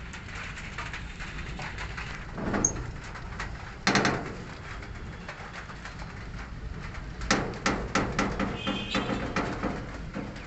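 Birds calling: a short burst about four seconds in, then a run of quick repeated calls a few seconds later, over a steady low rumble.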